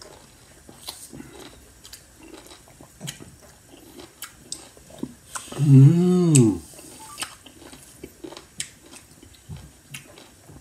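A man chewing sour lime with his mouth closed, making small wet mouth clicks and smacks. About six seconds in comes one loud, drawn-out vocal sound that rises and then falls in pitch.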